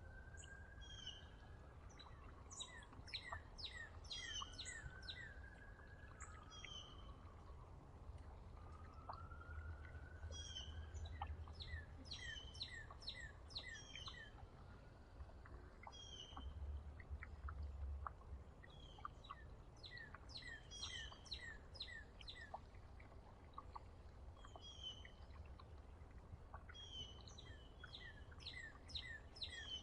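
Several small songbirds chirping and singing, their quick falling notes coming in repeated bursts, over a faint steady low rumble.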